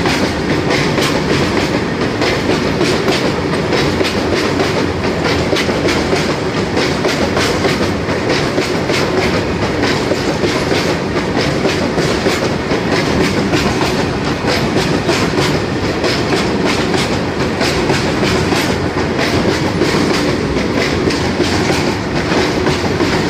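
Freight train of BFNSM flat wagons running past at speed: a steady rumble with rapid, irregular clicking of the wheels over the rail joints.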